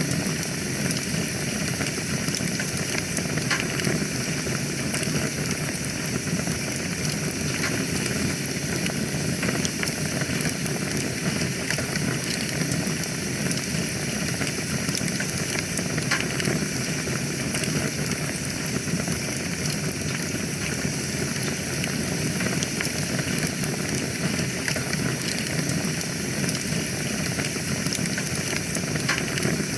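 Wood fire burning in a fireplace: a steady hiss and low rumble of the flames with scattered crackles and pops.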